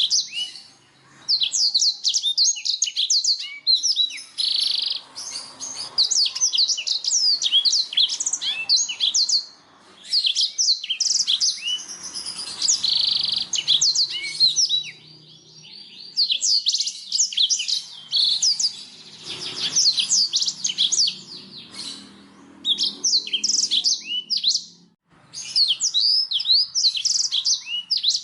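Black-throated canary (blackthroat) singing: long runs of quick, sweeping high notes, broken now and then by short pauses.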